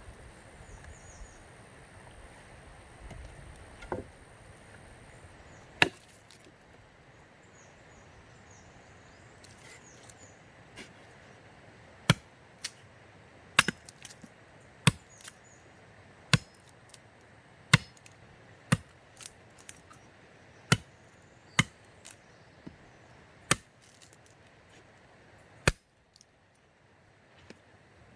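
Wood being chopped with a hand tool: sharp single strikes, a couple early on, then a run of about a dozen at irregular intervals of roughly a second.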